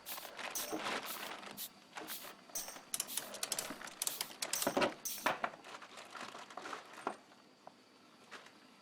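A run of irregular light clicks and knocks, which thin out and stop about seven seconds in.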